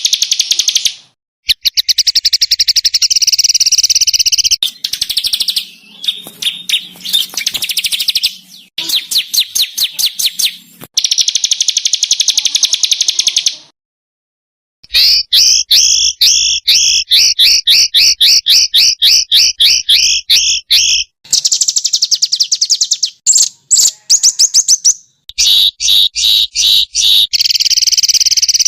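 Small songbirds singing fast runs of high, harsh repeated notes (the 'rough shots' prized in masteran song). Several different phrases are spliced together, with abrupt changes and two sudden breaks, one about a second in and one about halfway.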